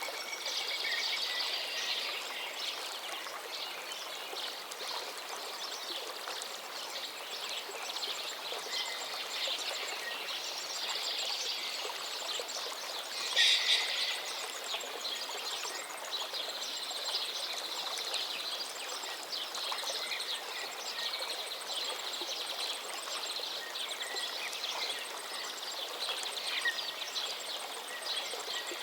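Several songbirds singing and calling over the steady rush of a gently flowing forest river, with one louder, sharper call about halfway through.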